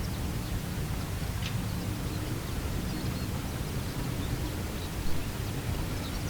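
Outdoor ambience: a steady low rumble of wind on the microphone, with faint scattered bird chirps.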